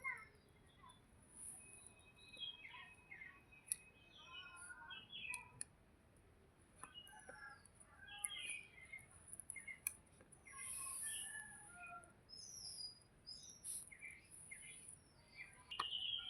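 Faint chirps and short whistled calls from several small birds, coming steadily throughout, with a few sharp clicks in between.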